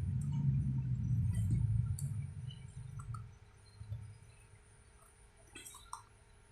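Low rumble of a moving electric bus heard from inside the cabin, dying away about three seconds in. A few faint clicks and a brief clink follow near the end.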